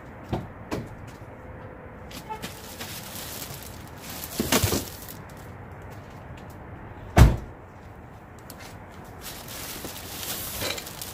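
Bags and boxed items being handled: a couple of light knocks, a burst of rustling, then one heavy low thud as something is set or dropped down.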